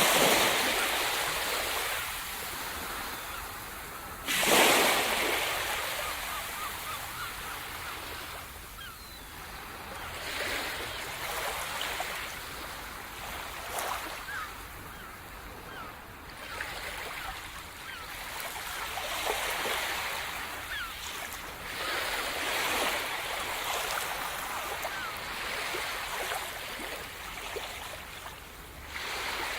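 Sea surf: a wave breaks with a loud crash right at the start and another about four and a half seconds in, then smaller waves wash in and draw back in slow swells.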